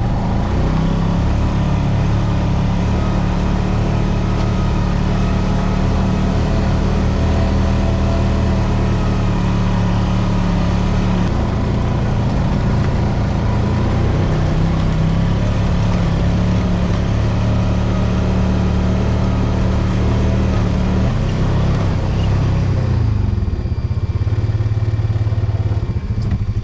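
ATV engine running steadily after being jump-started with a booster pack, its pitch shifting about eleven seconds in and rising and falling briefly near the end.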